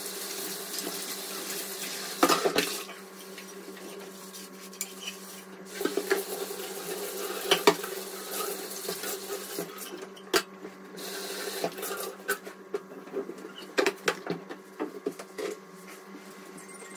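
Dishes and cutlery clinking and knocking in a kitchen, with water running from a tap at times.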